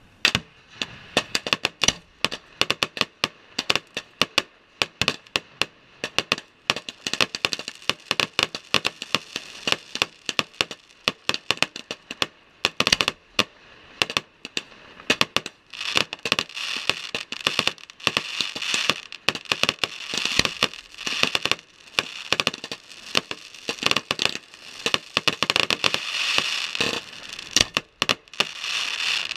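Fireworks display: a rapid string of sharp bangs and reports, thickening about halfway through into near-continuous crackling.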